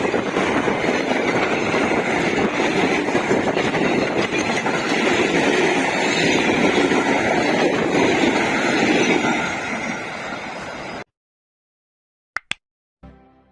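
A train passing close by, a loud steady rumble of wheels and running gear that cuts off abruptly about eleven seconds in. A few short electronic blips follow near the end.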